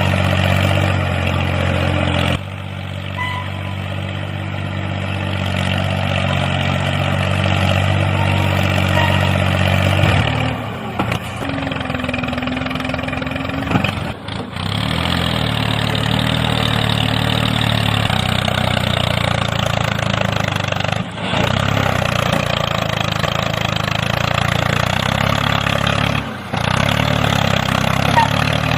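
Engine running steadily with a low, even hum, like a tractor engine idling. Its pitch and level change abruptly several times, as at edits.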